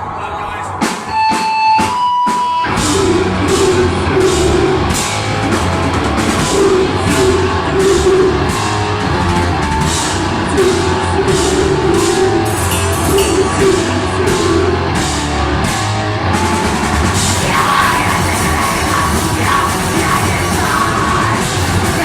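Deathgrind band playing live at full volume: a couple of brief held guitar tones, then distorted guitars, bass and rapid drumming from about three seconds in, with screamed vocals coming in after about sixteen seconds.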